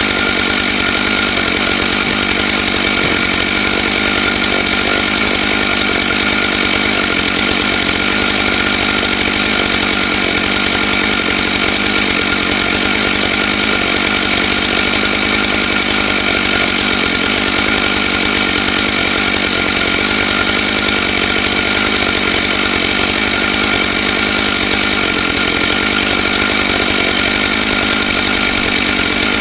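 Stihl MS661 two-stroke chainsaw running steadily at full throttle under load, ripping a log lengthwise through a chainsaw mill with a ripping chain. Its pitch holds constant with no let-up.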